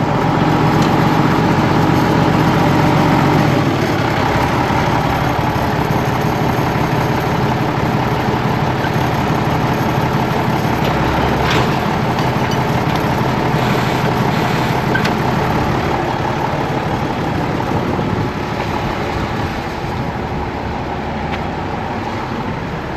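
Farm tractor engine running steadily after starting, supplying the hydraulics for the baler's bale thrower. There is a short knock about eleven seconds in.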